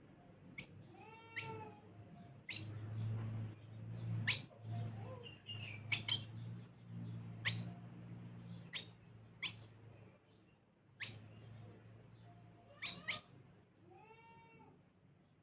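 Sparrows chirping in short, sharp notes at irregular intervals. Two longer calls that rise and fall in pitch come about a second in and near the end, over a steady low hum.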